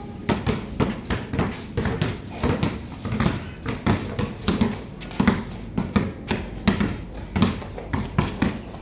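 Basketballs being dribbled on a hard court: an irregular patter of bounces, several a second, overlapping as if from more than one ball.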